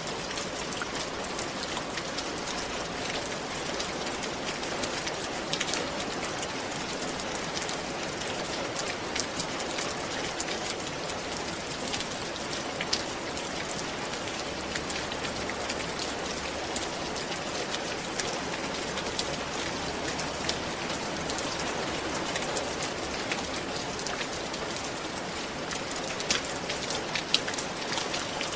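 Steady rain falling on a roof: a constant hiss of rain with many separate drops ticking on the surface, a few sharper ones near the end.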